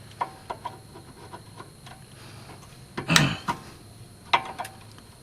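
Scattered small metallic clicks and clinks of hand tools working on a car's front axle parts. A louder knock comes about three seconds in, and another sharp click a little over four seconds in.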